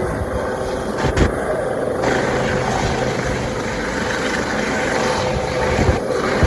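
Helicopter rotor and engine noise, a steady rushing with a low hum, mixed with wind buffeting the microphone.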